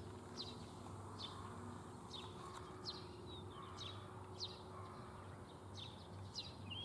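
Small birds chirping, short high calls repeated about once a second, over a faint low hum.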